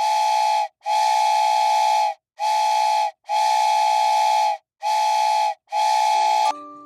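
A whistle sounding six blasts, some short and some long, each a chord of several close tones with a breathy hiss on top.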